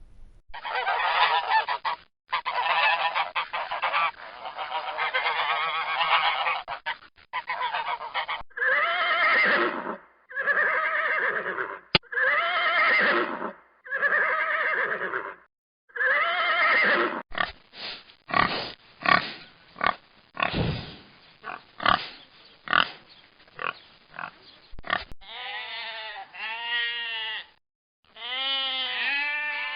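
Geese honking: a dense, overlapping chorus for the first several seconds, then single loud honks one after another, then a run of short, quick honks.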